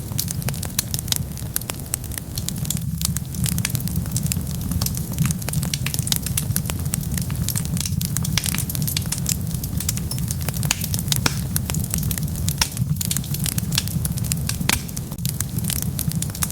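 Wood fire burning with dense, irregular crackling and popping over a steady low rumble.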